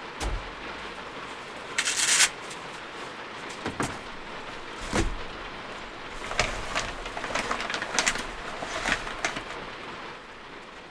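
Heavy typhoon rain falling steadily on a Toyota HiAce van's body, heard from inside, with scattered clicks and knocks of things being handled: a cluster about two seconds in and a run of lighter ticks in the second half.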